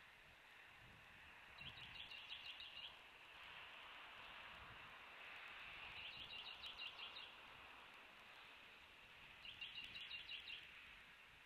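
Faint, distant small bird repeating a short, rapid, high trill three times, about four seconds apart, over a soft steady background hiss.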